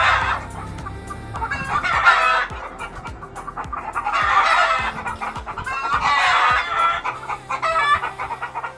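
Chickens clucking and a rooster crowing, about five calls spaced a second or two apart.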